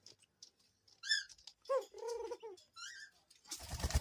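Doves calling: a young dove's short, high, squeaky calls about a second in and again near three seconds, with lower calls around two seconds in. A loud rush of noise starts near the end.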